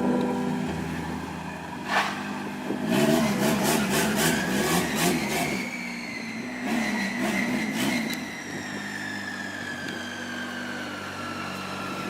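Car engine running, its pitch wavering up and down, with sharp clicks about 2 to 6 seconds in and a long high whine that rises a little and then slowly falls in pitch.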